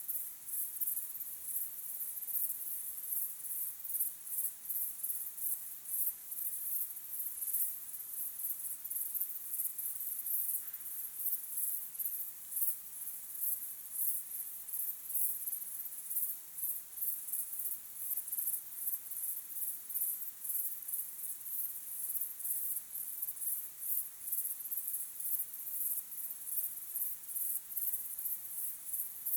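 Chorus of crickets chirping: a dense, high-pitched pulsing trill that goes on without a break.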